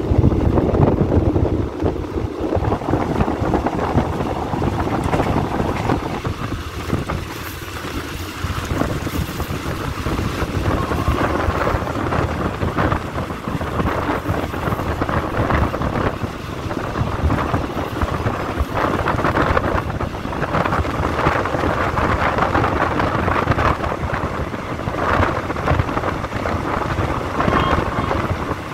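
Moving passenger train heard from an open carriage window: steady wind buffeting the microphone over the rumble of the train running on the rails.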